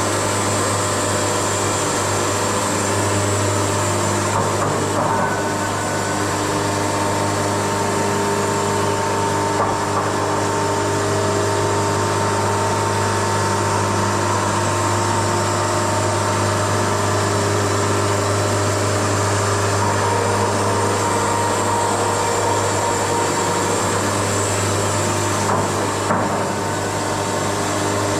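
Wood-Mizer LT70 band sawmill running steadily, with a steady hum and a couple of brief knocks.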